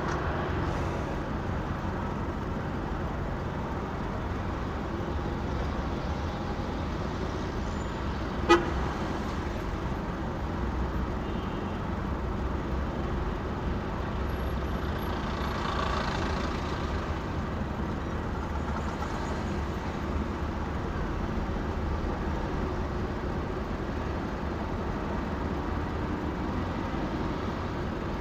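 Steady road and engine noise of a moving vehicle, with a single sharp click about eight and a half seconds in.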